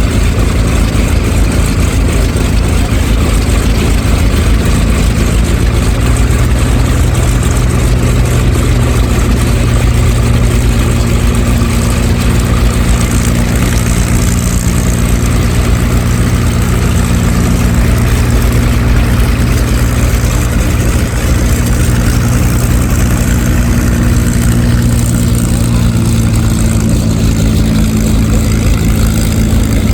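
F4U Corsair's Pratt & Whitney R-2800 eighteen-cylinder radial engine and propeller running steadily at idle, a loud low drone.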